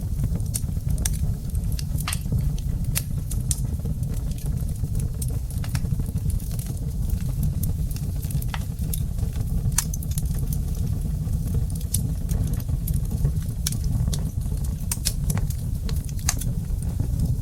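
Wood fire in a fireplace crackling: a steady low rumble of the flames with frequent, irregular sharp pops and snaps.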